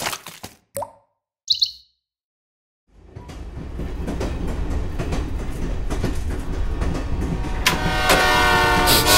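A train running on rails fades in after a short silence, a steady rumble with clickety-clack that builds, and a train horn sounds near the end. Before it come brief logo sound effects, the loudest a short high chirp.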